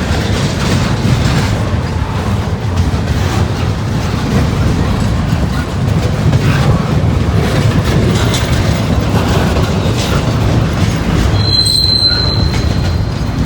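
Freight train cars rolling past on the rails, a steady rumble of wheels with clicks from the rail joints. About eleven seconds in, a brief high-pitched wheel squeal rings out for about a second.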